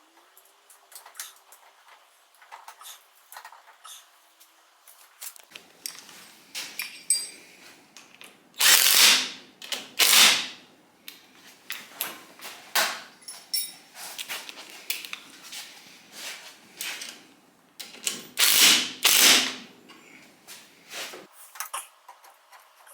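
Workshop handling noises: scattered clicks and clatter of tools and parts being worked. Three loud, short rushing bursts cut in, two close together past a third of the way in and a longer one near the end.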